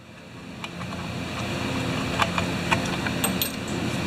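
Steady mechanical hum in the background, with a handful of light clicks and taps from tools and small parts being handled.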